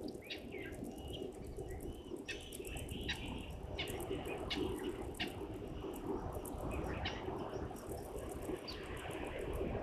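Wild birds chirping and calling in short repeated notes, over a fast high-pitched ticking and a steady low background noise.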